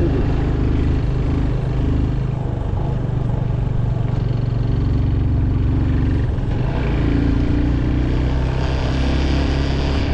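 Motorcycle engine running steadily while riding. Its note shifts slightly a couple of times, near the middle and again near the end.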